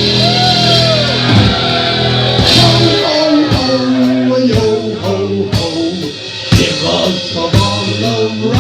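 Heavy metal band playing live: held electric guitar chords over a drum kit, with steady drum hits through the second half.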